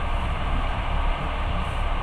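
Steady rumble and running noise of a moving passenger train, heard from inside the carriage.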